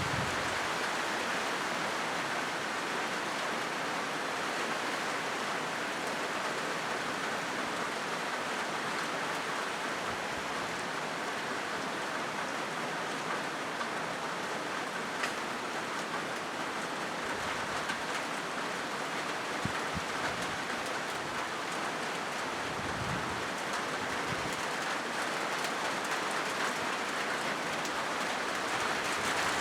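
Steady rain falling on a corrugated zinc roof: an even, unbroken hiss with a few brief low thuds.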